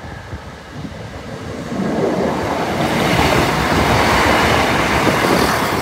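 East Midlands Railway Class 170 Turbostar diesel multiple unit passing close by over a level crossing. Its engine and wheels on the rails grow louder over the first few seconds, then hold at a steady level as the carriages go past.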